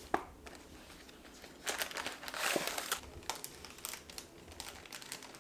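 Packaging of a boxed cookie mix crinkling and rustling as it is opened and handled, with a few sharp clicks. The rustling is loudest about two and a half seconds in.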